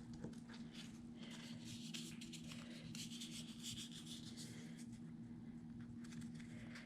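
Faint rustling and light taps of paper and cardstock being handled and laid onto a scrapbook page, over a steady low hum.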